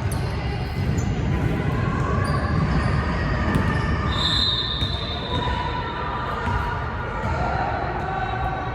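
Basketball game sounds: a ball bouncing on the court and sneakers squeaking, with short high squeaks, the clearest about four seconds in, over a steady murmur of crowd noise.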